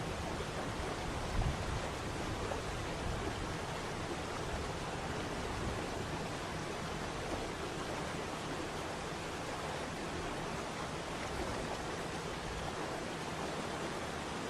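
Waterfall's rushing water, a steady even roar of falling and churning water. A brief low thump about a second and a half in.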